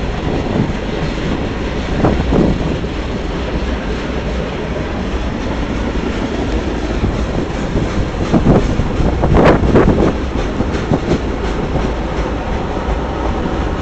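Freight train cars rolling past, the wheels clacking over the rail with steady rumbling. There are a few sharper clanks about eight to ten seconds in.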